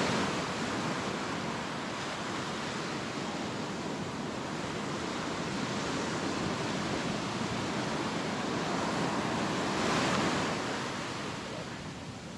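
Ocean surf washing up on a sandy beach: a continuous rushing wash that swells once about ten seconds in, then eases off near the end.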